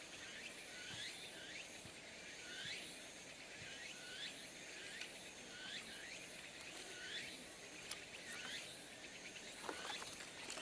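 Outdoor insect chorus: a short rising chirp repeating about every 0.7 s over a faint, high, pulsing buzz.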